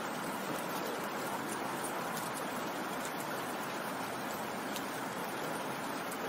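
Steady rain: an even hiss of falling rain with a few faint drop ticks.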